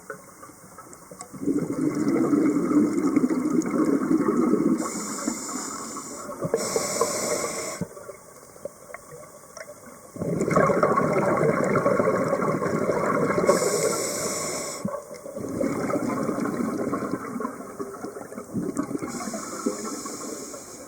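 Scuba diver breathing through a regulator underwater. Long bubbling exhalations of several seconds alternate with shorter hissing inhalations through the demand valve, in a slow repeating cycle.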